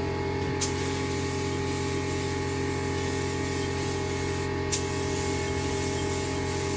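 Paint spray gun hissing as it lays a coat of candy paint, cutting back in with a sharp click about half a second in and again near the end, over a steady low hum.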